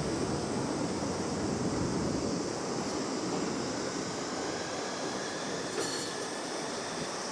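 Tram running on rails: a steady rolling rumble, with a faint high wheel squeal joining about four seconds in and a small click near the end.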